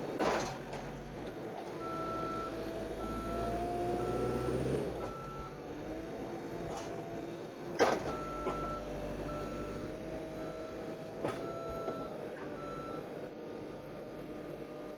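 Skid steer reversing while stuck in mud: its backup alarm beeps in two runs over the engine working under load, the engine pitch rising and falling. A few sharp clanks come through, the loudest one about eight seconds in.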